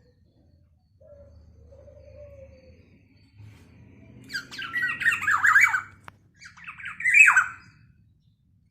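Black-naped oriole giving harsh, raspy squawking calls: a long run about four seconds in and a shorter one near the end, after a soft low whistle.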